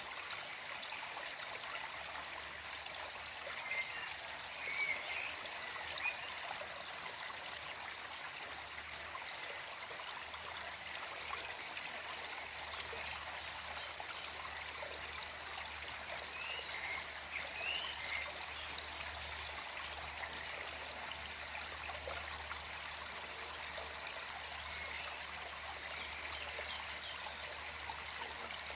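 A gentle forest stream flowing steadily, with a bird singing short phrases a few times in the background.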